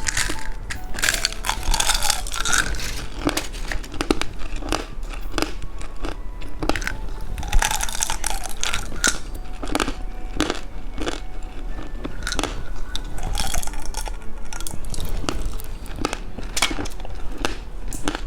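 Candy being unwrapped and eaten close to the microphone: crinkling and tearing of a plastic wrapper and repeated sharp crunching and chewing.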